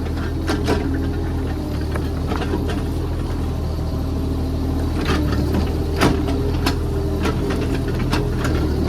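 JCB 30 Plus mini excavator's diesel engine running steadily, with several sharp knocks and clanks over it, the clearest about five and six seconds in.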